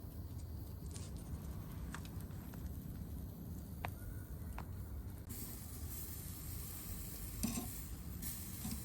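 Wood campfire burning: a low steady rumble with a few sharp crackles, then about five seconds in a steady high hiss sets in, with a short knock near the end.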